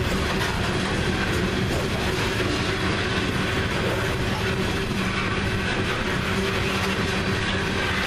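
Coal hopper cars of a Union Pacific coal train rolling past: a steady rumble of steel wheels on the rails, with a faint steady hum.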